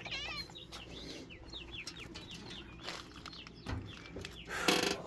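Small birds calling, a steady run of short downward-sliding chirps with a brief trill at the start. A loud harsh burst comes near the end.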